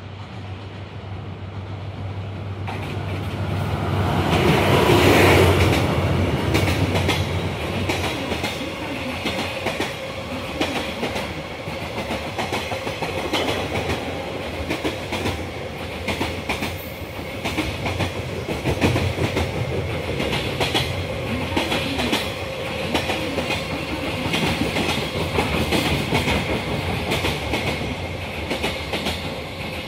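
Freight train passing close through a station. The locomotive's approach builds to its loudest about five seconds in. A long string of container wagons then runs by with steady clattering of wheels over the rail joints.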